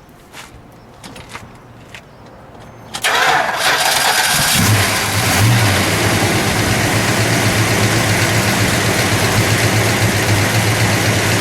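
A 1970 Dodge Charger R/T's 440 Magnum V8 with a four-barrel carburettor being started: a few faint clicks, then about three seconds in the starter cranks briefly and the engine catches and settles into a steady idle.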